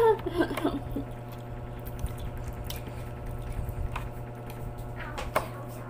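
A brief laugh, then wet chewing and squishing of fatty pork hock with a few soft clicks, over a steady low hum.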